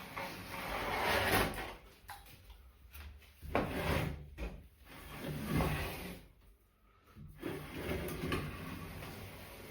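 Sliding, rubbing handling sounds, as of a drawer being pushed and pulled, in about four swells a couple of seconds apart.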